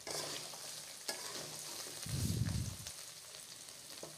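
Cut moringa drumstick pieces frying in mustard oil in a kadai over a medium flame, with a light sizzle. A spatula stirs and scrapes against the pan at the start and again about a second in, and there is a dull low rumble around two seconds in.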